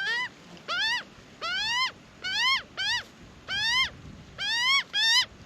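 Juvenile Australian magpie begging for food: a series of about nine short calls, each rising in pitch and then breaking off, repeated one to two times a second.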